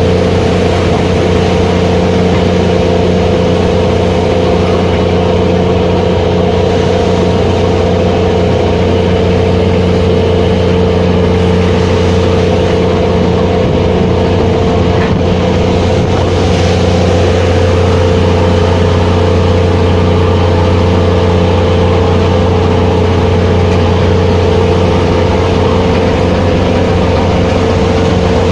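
Fishing vessel's engine running steadily: a constant low hum with a higher steady tone above it, over an even hiss of noise.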